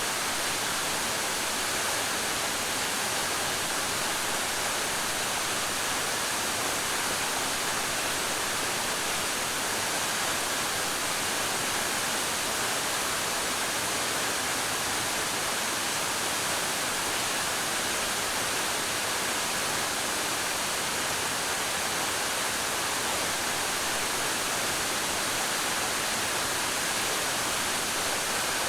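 Waterfall: a steady, unbroken rush of falling water, mostly hiss-like with little low rumble.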